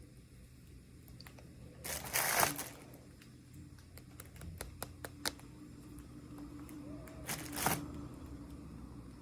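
Hands handling plastic toy packaging: two short crinkling rustles, about two seconds in and again near the end, with light clicks and taps between them.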